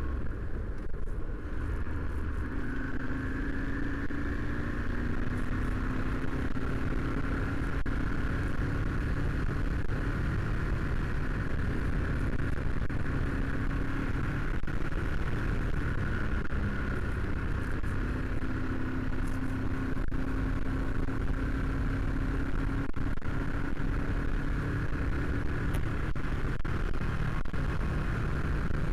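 Motorcycle engine running at cruising speed, its note rising and falling a little with the throttle through the bends, over steady wind and road noise on a helmet-mounted microphone.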